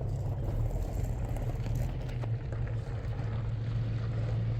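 An engine or motor running steadily with a low, even rumble.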